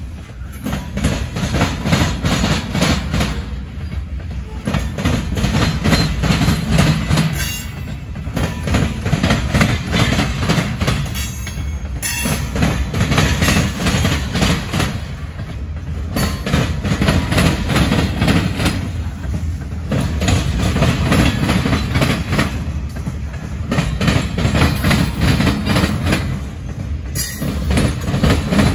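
Freight train of loaded covered hopper cars rolling past at close range: a steady rumble of wheels on rail with repeated clacks as the wheels cross rail joints, swelling and dipping about every four seconds as each car goes by.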